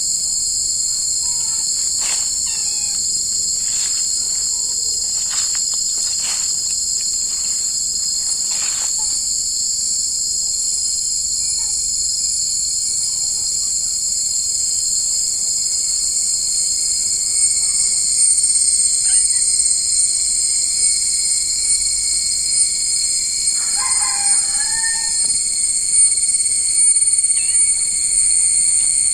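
Steady, high-pitched chorus of singing insects. A few brief animal calls come in the first nine seconds, and one longer pitched call comes about three-quarters of the way through.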